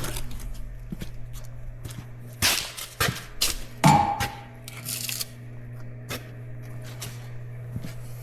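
A few scattered knocks and clanks of metal equipment being handled, one of them about four seconds in leaving a short metallic ring, over a steady low electrical hum.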